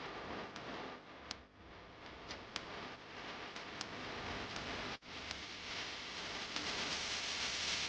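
Drawing tool scratching on paper in continuous strokes, with sharp ticks scattered through the first half; the scratching grows louder toward the end.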